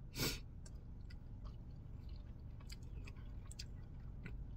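A man chewing a mouthful of chicken and rice with gravy, lips closed: faint wet mouth clicks and smacks, with one louder smack about a quarter of a second in.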